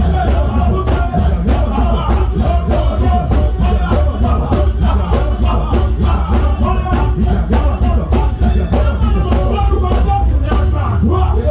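Loud band music with a steady, driving drum beat and heavy bass.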